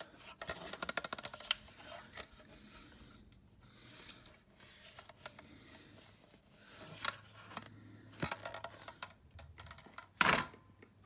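Plastic Hot Wheels track pieces being handled, clicking and rattling, with a quick run of small clicks in the first couple of seconds and a brief louder rustle near the end.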